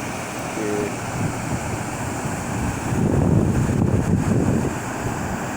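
Water rushing as a steady wash of noise, swelling louder for about a second and a half starting about three seconds in.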